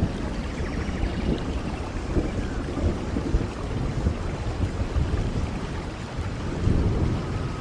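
Steady heavy rain falling on rainforest foliage, with a deep rumbling low end, and faint bird or insect calls above it.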